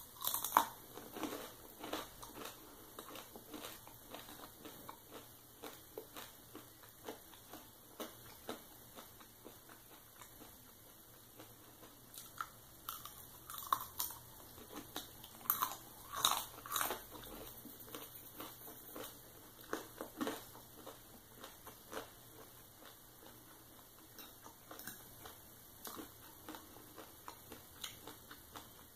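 A person biting and chewing bacon close to the microphone: irregular crunchy bites and chewing sounds. A sharp bite comes right at the start, and a louder run of crunches comes about halfway through.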